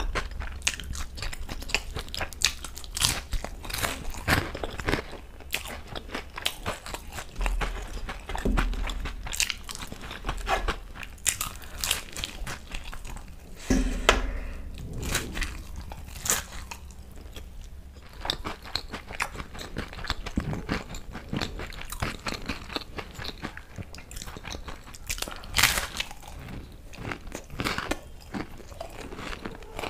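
Close-up chewing and biting of a fried samosa, its crisp pastry crunching in many irregular sharp crackles throughout.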